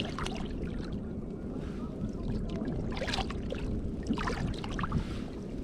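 Sea kayak afloat, with a steady low wash of wind and water on the microphone and scattered short splashes and knocks of handling on the boat.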